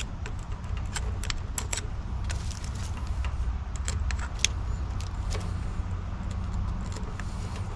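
Small metallic clicks and clinks of hand tools and wire terminals as an air-conditioner's run capacitor is handled for testing, scattered irregularly over a steady low hum.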